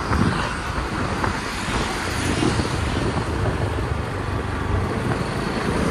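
Wind buffeting the microphone over steady engine and road noise while riding a motorbike along a highway at cruising speed.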